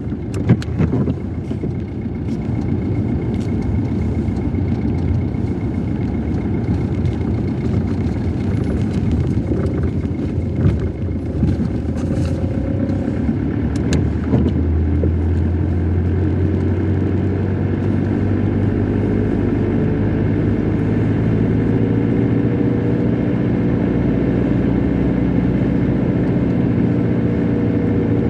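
Car being driven, with road and engine noise heard from inside the cabin, a few light knocks in the first half. About halfway through the engine settles into a steady hum.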